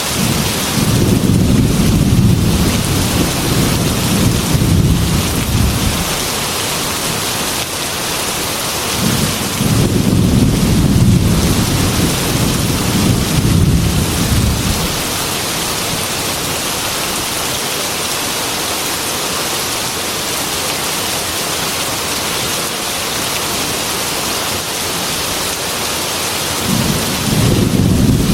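Heavy rain beating steadily against a glass window, with long low rolls of thunder: one starting about a second in, another from about nine seconds in that lasts around six seconds, and a third starting near the end.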